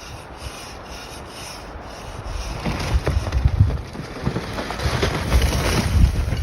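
Strong wind buffeting the microphone in irregular rumbling gusts, loudest about three seconds in and again near the end.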